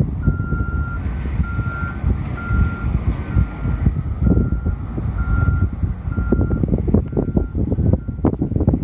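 Construction vehicle's backup alarm beeping, one steady tone about once a second, over low engine rumble and wind buffeting the microphone; the beeps get fainter near the end.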